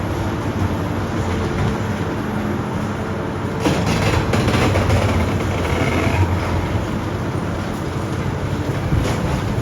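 Heavy demolition machinery running steadily with a low engine hum, and a louder stretch of crunching and clattering, like debris breaking, starting about three and a half seconds in and easing off a couple of seconds later.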